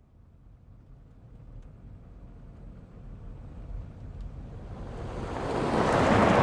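A swell of whooshing noise, like wind or surf, growing steadily louder and brighter, leading straight into music.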